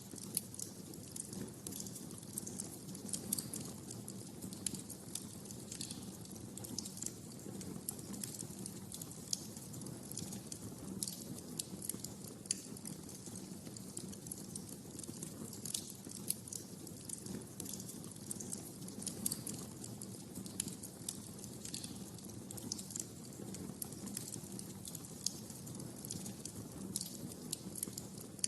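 Wood fire crackling in a fireplace: many sharp, irregular pops and snaps over a steady low rush of burning.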